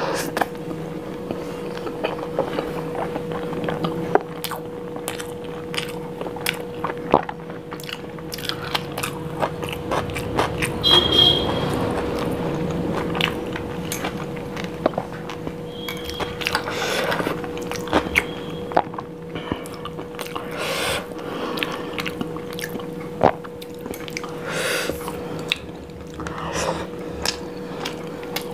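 Close-miked chewing and biting of an Indian meal of biryani, paratha and curry, eaten by hand, with many small mouth clicks. A steady hum sits underneath.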